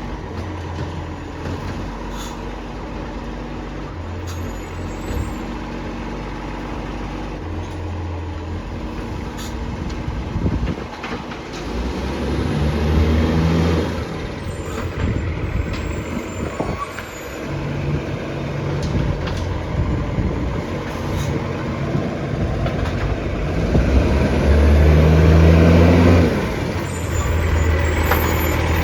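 Recycling garbage truck's diesel engine running, with two louder surges about halfway through and again near the end as it revs.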